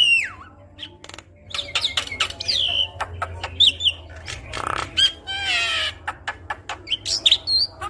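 Javan myna singing a varied, busy run of gliding whistles mixed with many sharp clicks and a harsh rasping chatter.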